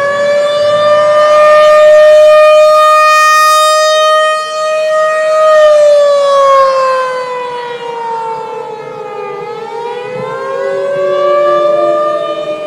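Warning siren of the civil-defense type wailing: it rises and holds one pitch for about five seconds, slides down over about four seconds, then climbs again near the end.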